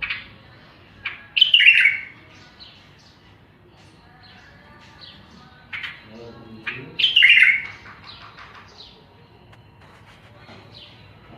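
Birds chirping: short high chirps scattered throughout, with two louder calls that fall in pitch, about a second and a half in and again about seven seconds in.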